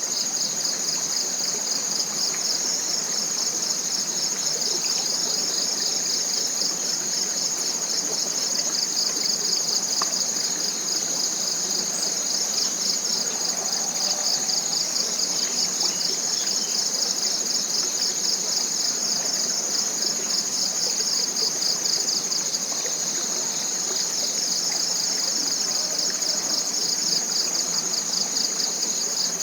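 Dense chorus of tropical forest insects: a loud, steady high-pitched buzz with a fast pulsing trill running under it. A soft rushing of a small stream sits beneath.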